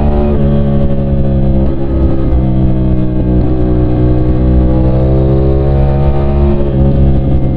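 CFMOTO 450SR's parallel-twin engine pulling hard while riding, its revs climbing and easing off, with a sudden drop in pitch shortly after the start and again near the end, as at gear changes.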